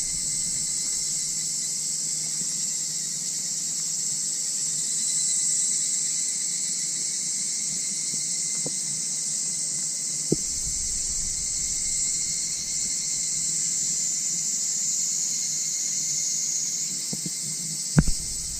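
A steady, dense high-pitched chorus of night insects trilling, with a few sharp clicks, the loudest just before the end.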